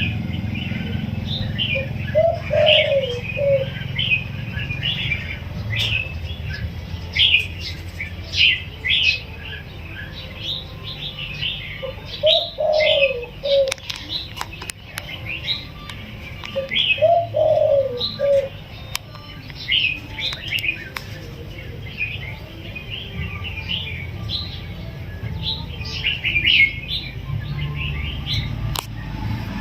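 Spotted dove cooing: three low coo phrases, each about a second and a half long, spaced several seconds apart. Small birds chirp steadily throughout at a higher pitch.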